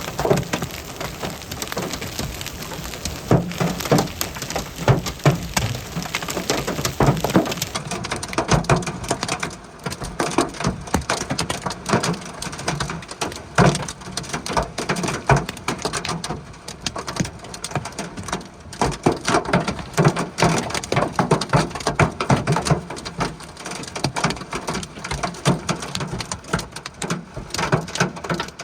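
Large hailstones pelting hard surfaces in a severe thunderstorm, a dense, irregular clatter of sharp impacts over the hiss of rain, rising and falling in waves.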